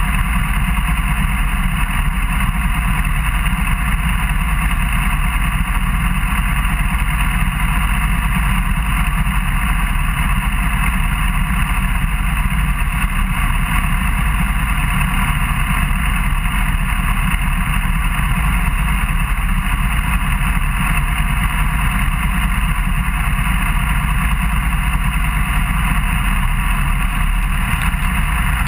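Suzuki GSR600's inline-four engine idling steadily while the motorcycle stands at the roadside.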